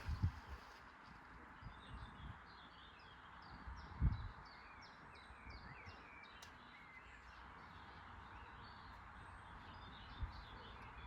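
Birds chirping over a steady background hiss, with a run of short, quick falling chirps in the middle, and a few dull low thumps, the loudest about four seconds in.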